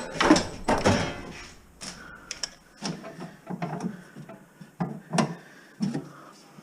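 Irregular clicks, knocks and rattles of metal being handled while copper wire is cut and pulled out, the loudest two within the first second and more scattered after.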